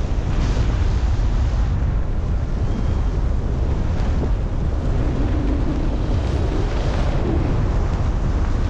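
Wind buffeting the microphone in flight: a loud, steady, low rumbling rush of airflow.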